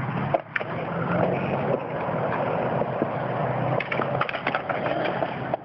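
Skateboard wheels rolling on wet concrete with a steady low rumble, broken by several sharp clacks of the wooden deck, most of them in the last couple of seconds.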